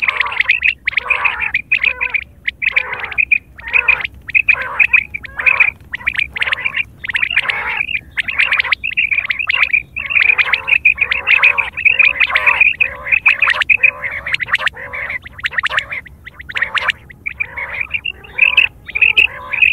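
Common quail calling over and over in quick, short bursts with brief gaps between them, as used for a hunting call.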